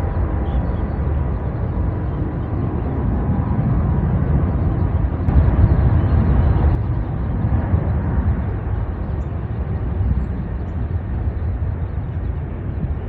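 Jet airliner engines rumbling steadily, a deep roar with a hiss above it, swelling briefly louder about halfway through.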